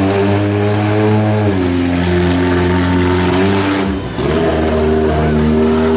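Monster truck engine running hard at high revs. Its pitch steps down about a second and a half in, and it briefly drops off throttle about four seconds in before coming straight back on.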